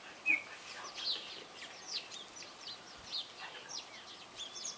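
A group of wild songbirds chirping together, a busy run of short, downward-sliding calls overlapping one another, with one louder call just after the start.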